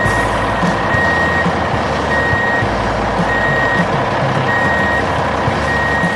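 Heavy truck's backup alarm beeping at a steady pace, one high-pitched beep a little over once a second, over the continuous loud rumble of heavy machinery engines.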